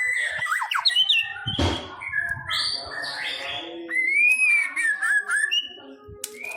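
White-rumped shama singing: a fast, varied run of whistles and chirps with a harsh rasping note about a second and a half in, then clear, sliding whistles near the middle.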